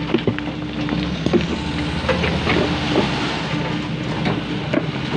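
Heavy diesel machinery running steadily, with a low rumble and a tone that comes and goes, mixed with scattered knocks and rattles from the loading of fill material.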